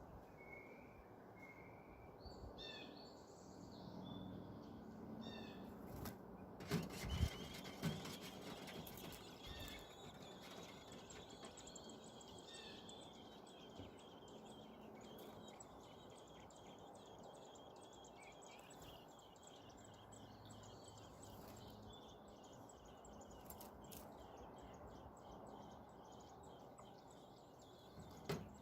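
Faint bird chirps over quiet outdoor background noise, with a thin high chittering running through the middle and a couple of sharp knocks about six to seven seconds in.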